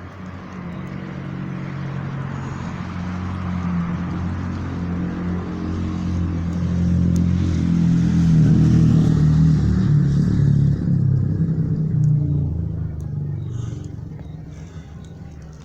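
A motor vehicle's engine running, growing louder for about eight seconds and then fading away, as if it drives past.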